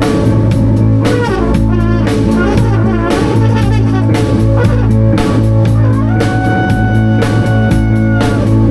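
Live band improvising: a drum kit keeps up steady strokes and cymbal hits while a guitar plays over a low sustained bass note. A high note is held for about two seconds from around six seconds in.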